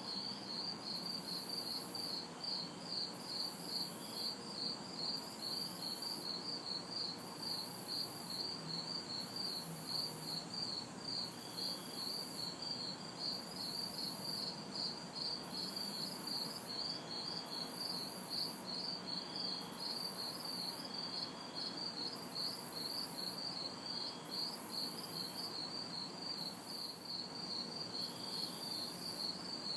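Crickets chirping steadily at night, about three chirps a second, with a higher insect buzz pulsing on and off about once a second above them. A faint, even hum of distant city traffic lies underneath.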